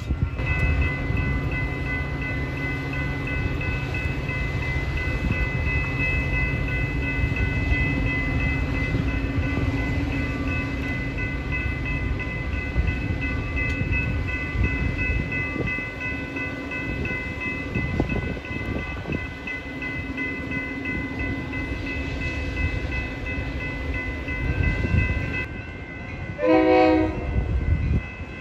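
Metra bilevel commuter train rolling past at close range: a steady rumble of wheels on rail with steady high tones over it. A short, loud train horn sounds about two seconds before the end.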